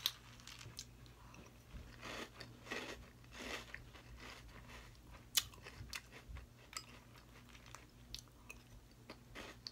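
Close-up chewing and crunching of a mouthful of Cap'n Crunch's Crunch Berries cereal in milk, with a few sharp clicks of a metal spoon against the bowl, the loudest about halfway through.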